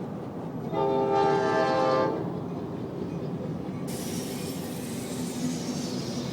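Train horn sounding one long blast of about a second and a half, heard from a moving car over steady road rumble. A rushing hiss picks up about four seconds in.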